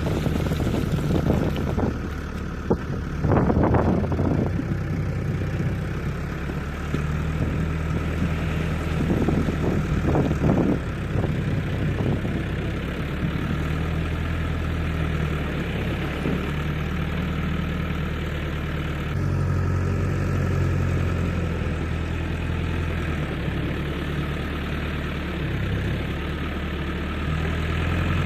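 Heavy diesel engine running steadily, its note shifting in pitch a couple of times, with a few rushing bursts of noise in the first ten seconds or so.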